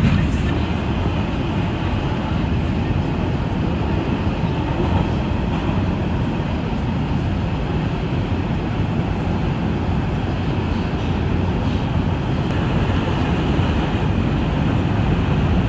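R142 subway car running between stations, heard from inside the car: a steady rumble with wheel-on-rail noise.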